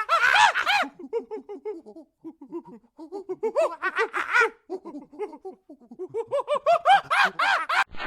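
An animal calling in rapid runs of short, pitched chattering notes, several a second, in repeated bursts that swell and fade.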